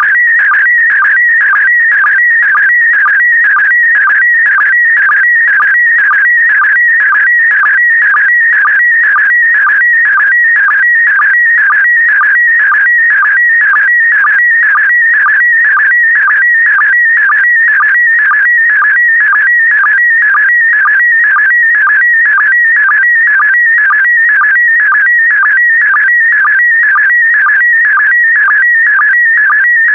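Slow-scan television (SSTV) signal in PD120 mode sending an image: a loud, high electronic tone that warbles rapidly as the picture data changes. It is broken about twice a second by a brief lower sync tone that marks each new pair of scan lines.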